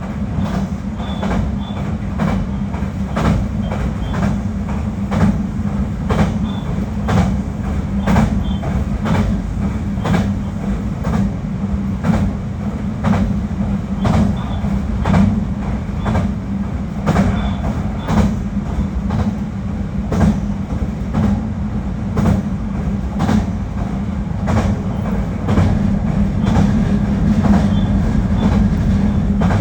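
JR Kyushu 821 series electric train running at speed, heard from inside the car: a steady low running drone, with the wheels clicking over rail joints about once a second.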